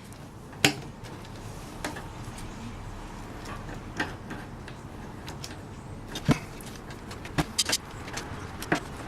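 Scattered sharp clicks and light knocks of small plastic and wire bird-feeder parts being handled, about eight in all, with three in quick succession near the end.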